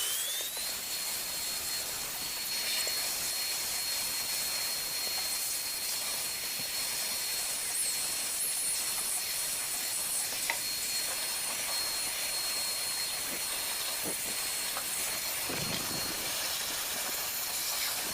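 Vacuum cleaner running steadily, its motor whine held at a high pitch over the rush of air, sucking rodent nesting debris out of an engine's cylinder head.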